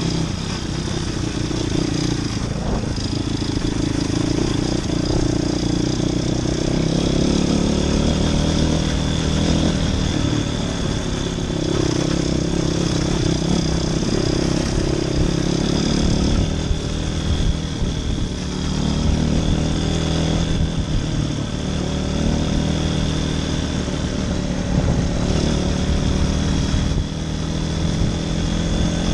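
Motoland RT200 motorcycle engine running under way, its pitch rising and falling repeatedly as the throttle opens and closes.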